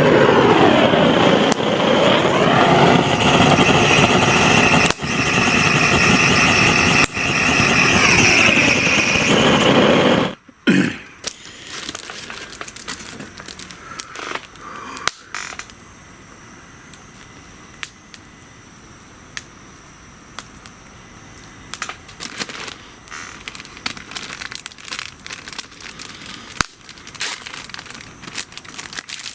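A loud whining, hissing sound whose pitch wavers up and down for about ten seconds, then cuts off suddenly. After that comes a wood fire's quiet crackling, with scattered sharp snaps.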